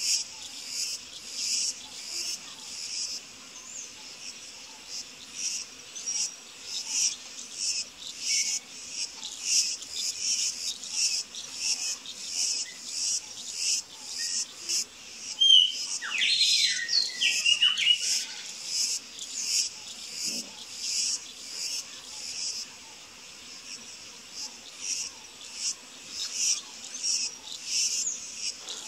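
Insects chirping in a steady run of high-pitched pulses, about two a second. A short bird call, with gliding notes, rises above them about halfway through.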